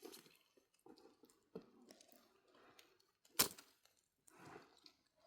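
Faint scattered knocks and soft handling sounds, with one sharp crack about three and a half seconds in.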